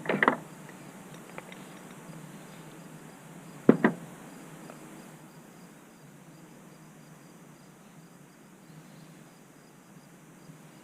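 Two brief clusters of knocks, one at the start and one about four seconds in, from parts and tools being handled in a car's engine bay during a battery replacement. Crickets chirp faintly and steadily in the background.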